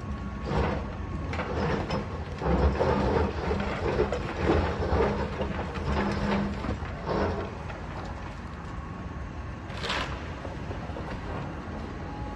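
Building demolition: a diesel machine runs steadily while rubble crunches and crashes down in a run of knocks and impacts for the first seven seconds or so. It then settles to the engine running more quietly, with one sharp clack about ten seconds in.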